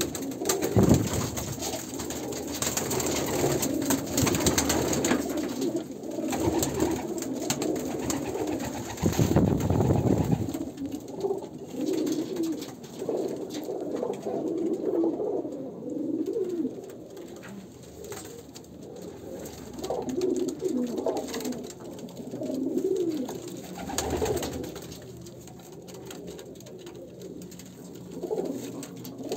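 Domestic pigeons cooing over and over, low wavering coos, with a brief burst of noise about nine seconds in.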